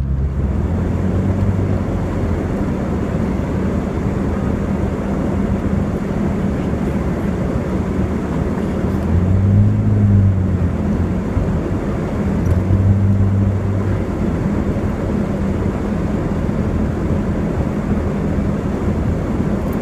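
Car engine and loud exhaust droning steadily while driving, over tyre and road noise. The exhaust note swells and rises briefly about halfway through, and again a few seconds later.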